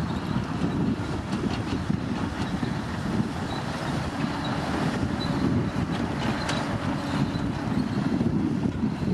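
Komatsu D65P crawler bulldozer running, a steady deep drone of its diesel engine and machinery at work.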